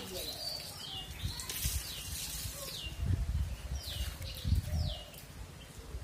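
A small bird gives several short, high calls, each sliding downward, at irregular intervals, over low rumbles.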